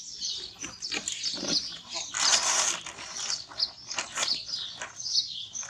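Birds chirping in short, high calls throughout, with a brief harsh rustling noise a little over two seconds in.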